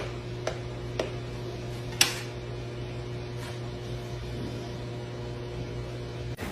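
A steady low hum, like a running room appliance or fan, with a few sharp clicks; the loudest click comes about two seconds in.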